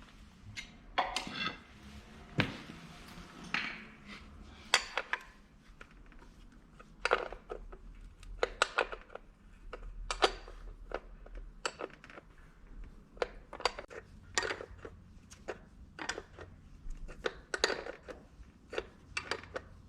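Hand tools and metal parts clinking and knocking at irregular intervals, with a short scraping rustle early on.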